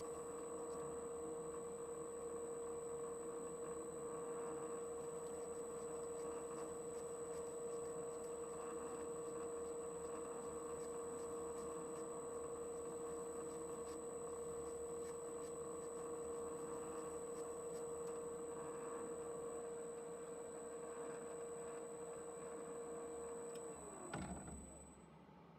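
PM-1130 metal lathe running steadily with a constant whine, then switched off near the end, its pitch falling as it spins down.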